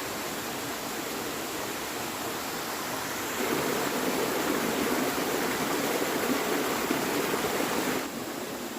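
Steady rushing noise of water, louder for a few seconds from about a third of the way in, then dropping suddenly near the end.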